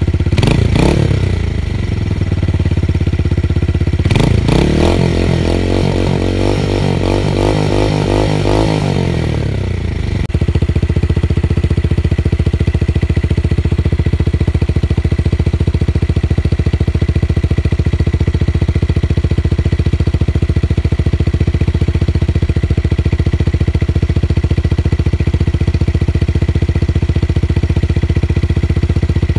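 Tuned motorcycle with a deep, bass exhaust note: a quick blip of the throttle, then a longer rev that climbs and falls back over several seconds, then a steady idle from about ten seconds in.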